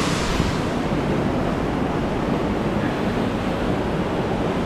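Steady rush of water from a waterfall, loud and even; its high hiss dims about half a second in.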